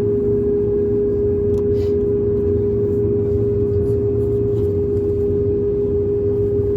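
Steady cabin noise inside an Airbus A220-300 with its Pratt & Whitney PW1500G geared turbofan engines running: a low rumble with a steady mid-pitched hum held throughout.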